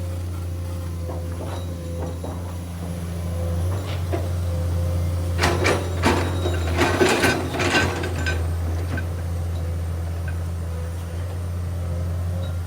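Komatsu PC210 hydraulic excavator's diesel engine running steadily, with a cluster of metallic clanks and knocks from about five to eight seconds in.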